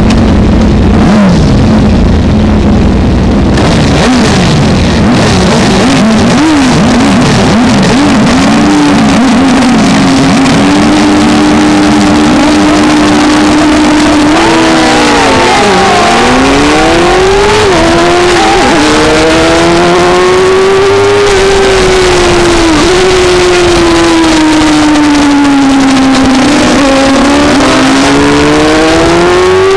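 Onboard sound of a 600cc racing motorcycle in a race start: at first an engine note held steady, then a tangle of many engines revving together, then the bike's own engine climbing and falling again and again with throttle and gear changes, over heavy rushing noise.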